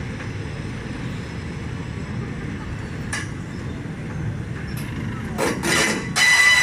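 Train running with a steady low rumble. About five and a half seconds in comes a short burst of noise, then near the end a loud, sustained horn blast begins.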